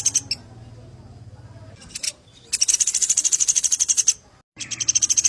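Caged songbird singing in fast rattling trills of rapidly repeated high notes, in bursts of about a second and a half: one ending just after the start, another in the middle, and a third starting near the end, with a short cut-out of all sound just before it.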